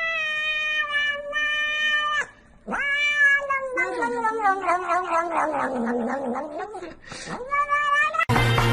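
A cat yowling in long drawn-out calls: one held at a steady pitch for about two seconds, then a longer call that sinks in pitch and wavers, then a short one near the end.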